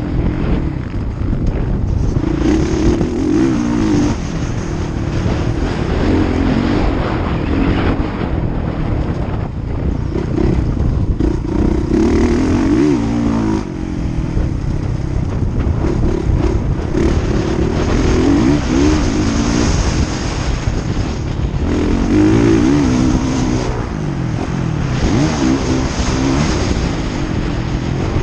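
Motocross bike engines running hard on a practice track, their pitch rising and falling over and over as riders rev through corners and gear changes, with several bikes overlapping.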